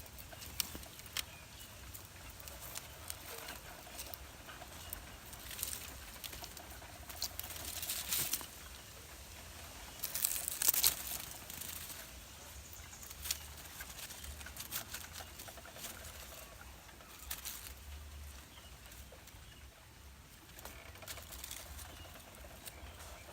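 Rustling with scattered light clicks and taps, and a louder burst of rustling about ten seconds in.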